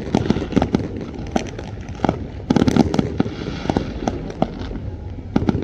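Aerial fireworks going off in a rapid, irregular barrage of bangs and crackles, densest about two and a half seconds in.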